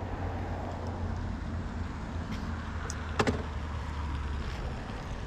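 Steady low rumble of an e-bike being ridden off from a stop, with a sharp click a little past three seconds in.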